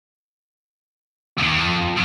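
Silence, then about a second and a half in, a hardcore punk track starts abruptly on a loud, heavily distorted bass guitar riff.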